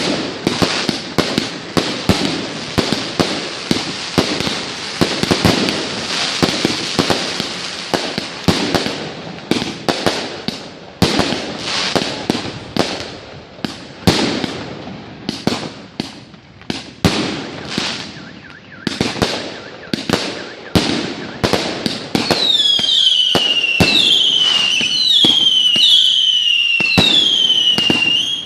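Fireworks display: a dense barrage of bangs and crackling bursts that thins out about a third of the way in. In the last six seconds a string of whistling fireworks sounds, each whistle falling in pitch, about one a second, among scattered pops.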